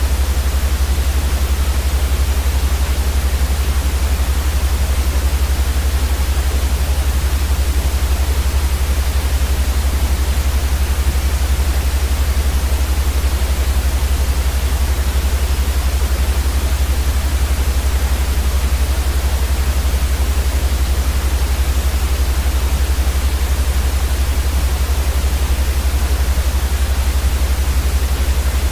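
Continuous white noise for sleep: an even, steady hiss across the whole range, with a strong low rumble underneath, unchanging throughout.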